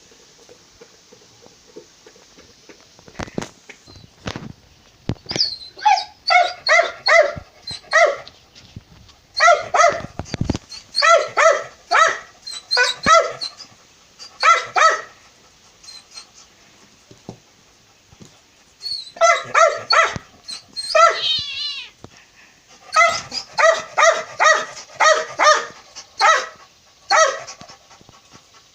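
Small dog barking in quick runs of short, high-pitched yaps, with pauses between the runs. A few knocks come before the barking starts.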